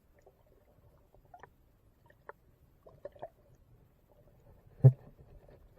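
Scattered faint taps and clicks in a small boat, with one sharp knock about five seconds in.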